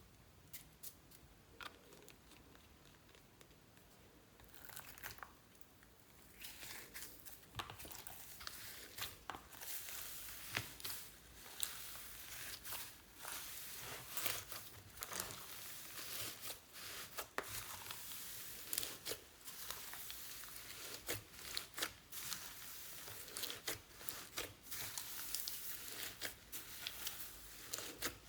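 Slime being worked by hand, faint at first, then from about six seconds in a steady run of crackling and sharp little popping clicks as it is squeezed and stretched.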